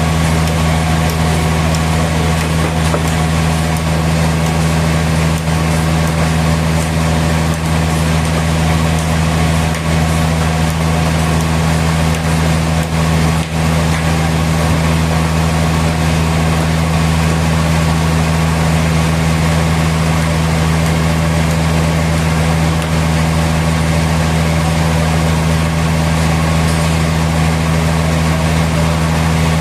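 A sawmill's engine running steadily with a low, even hum that does not rise or fall.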